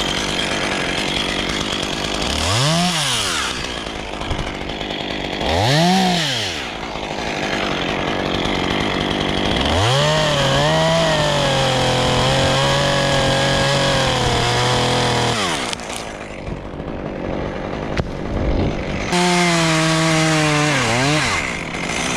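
Chainsaw blipped up to speed and back twice, then held at a steady high speed for about five seconds as in a cut, and run up again near the end before dropping off.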